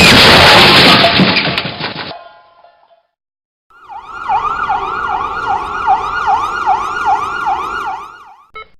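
A loud burst of noise that dies away over about two seconds, then after a short silence a siren that sweeps up and down rapidly, about two and a half times a second, stopping shortly before the end.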